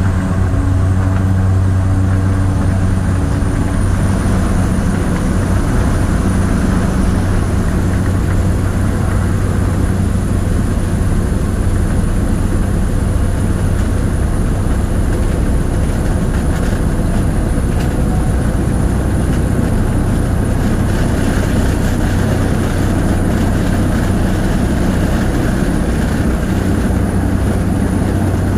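Cabin noise of a Cessna 208 Caravan in flight: the PT6A turboprop and propeller give a steady, loud low drone with a thin high turbine whine over it. The whine rises a little over the first few seconds, then holds steady.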